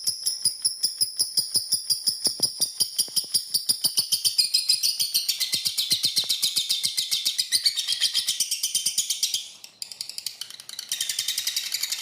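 Lovebird giving its long 'ngekek' chatter: a fast, unbroken run of shrill high notes, many a second. It breaks off for a moment near the end, then starts again.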